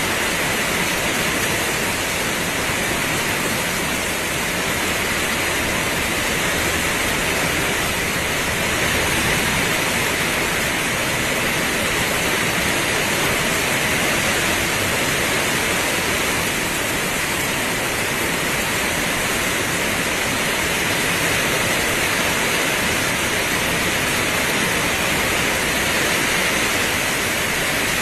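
Heavy rain pouring down as a steady, even hiss with no separate drops or other events standing out.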